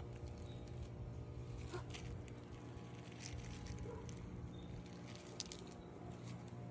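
Faint steady low hum with scattered soft ticks and one sharper click a little past halfway. There is no steady rain patter, as the rain has stopped.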